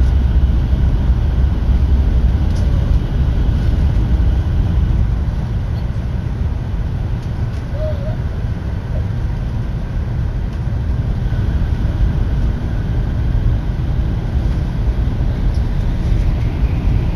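Tokaido Shinkansen bullet train running at speed, heard from inside the passenger car as a steady low rumble.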